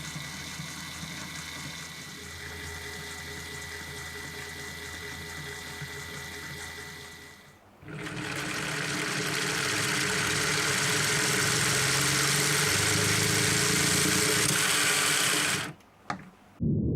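Lego Technic four-cylinder X-engine model spun by a motor, its gears and pistons whirring and clattering steadily. The sound stops about seven and a half seconds in, starts again louder about a second later, and cuts off near the end.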